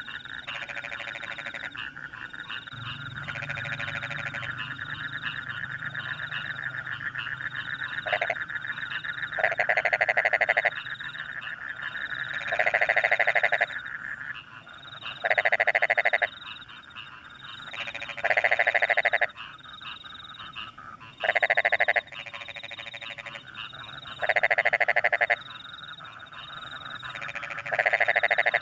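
A chorus of rice-field frogs, with one loud frog near the microphone calling in bouts of about a second, roughly every three seconds from about eight seconds in. Crickets trill steadily underneath.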